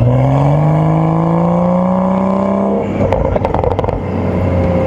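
BMW M235i's turbocharged N55 straight-six revving, its pitch climbing steadily for about three seconds under power on snow. The revs then drop with a short patter of sharp clicks, and the engine carries on at a lower, steadier pitch.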